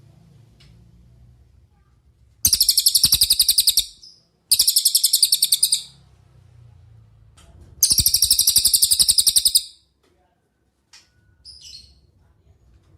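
Cililin songbird singing three loud, rapid, rattling trills, each about a second and a half long, high-pitched and made of fast even pulses. A couple of faint short chirps follow near the end.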